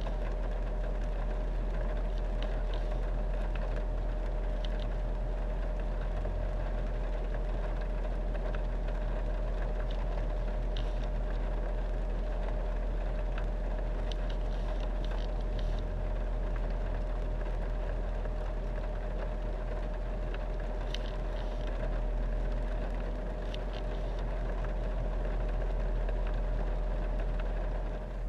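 2016 Ford Mustang GT's 5.0-litre Coyote V8 idling, heard from inside the cabin as a steady low hum with a faint steady whine above it. A few faint clicks are scattered through it.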